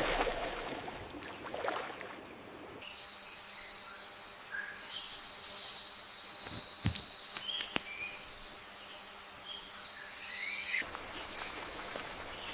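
Rainforest ambience: a steady chorus of insects trilling on several high pitches, coming in about three seconds in, with a few faint bird chirps scattered through it and two sharp clicks in the middle.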